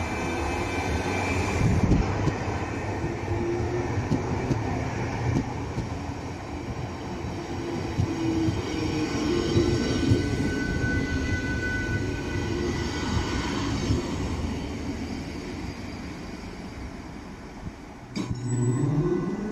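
Roslagsbanan electric train passing close by: wheels rolling and rumbling over the rails with a thin steady wheel squeal, the sound fading as the train moves away. About a second and a half before the end, an abrupt change to another train whose motor whine rises in pitch as it pulls away.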